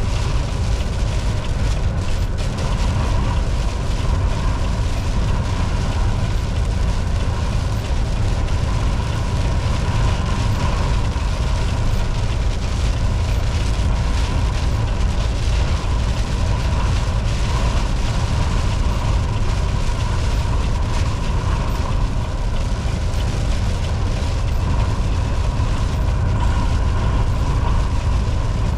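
Volvo VNL 760 semi truck cruising at steady highway speed: a continuous low engine and road rumble with a faint steady whine above it.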